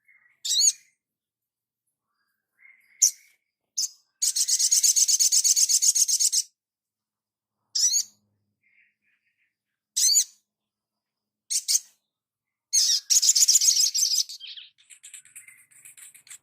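Small songbird singing: sharp, high chirps spaced a second or two apart, with a fast, even trill about four seconds in and another near the end.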